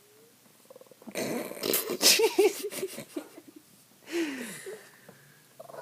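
Dogs whining in short, rising-and-falling yips over loud, noisy scuffling and sniffing close to the microphone for about two seconds, then one falling whine about four seconds in.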